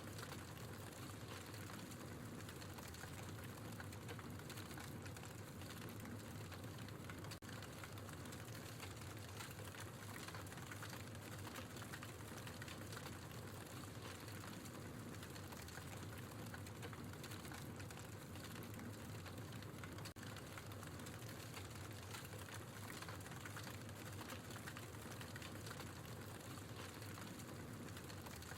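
Wood fire crackling in a fireplace: logs burning with a steady, dense run of small pops and snaps.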